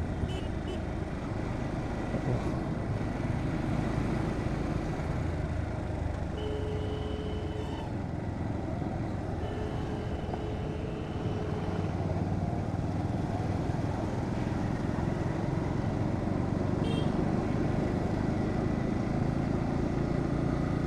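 Bajaj Pulsar NS125 motorcycle riding through city traffic: steady engine and wind noise on the rider's microphone. A horn sounds twice, about 6 and 9.5 seconds in, each blast one to two seconds long.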